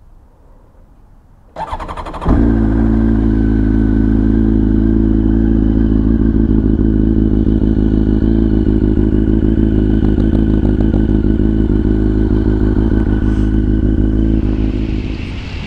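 Honda CBR1100XX Blackbird's inline-four engine turned over by the electric starter for under a second, catching about two seconds in, then idling steadily through an aftermarket slip-on muffler. The sound drops noticeably in level near the end.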